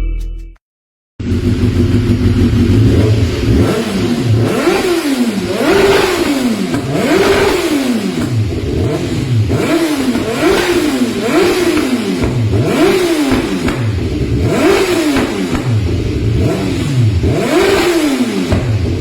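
Motorcycle engine breathing through a Proformance aftermarket exhaust, revved repeatedly with about ten throttle blips. Each rev climbs and falls back in pitch, roughly one every second and a half.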